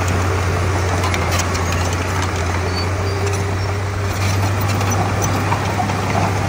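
Komatsu D31P bulldozer's diesel engine running at a steady, even speed, with faint scattered clicks over the low drone.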